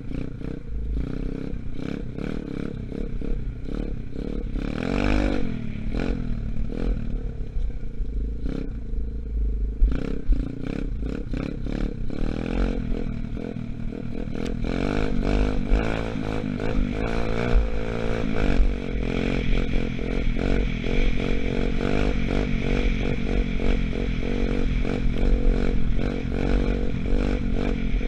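125cc Gunshot dirt bike engine running under way, its revs rising and falling, with frequent rattling clatter throughout.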